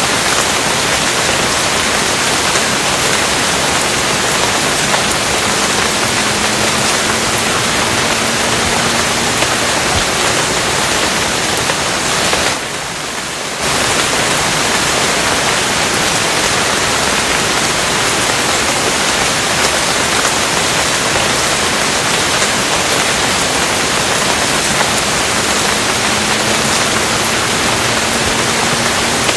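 Steady, dense rain hiss with no separate drops standing out. It drops briefly in level for about a second near the middle.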